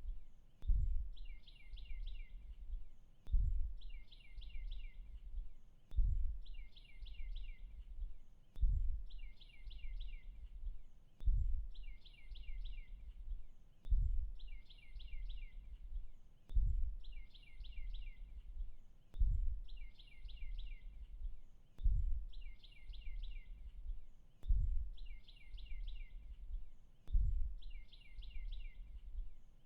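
A bird's short trill of about five quick notes, repeated the same way roughly every two and a half seconds, over a deep low pulse that swells and fades on the same beat.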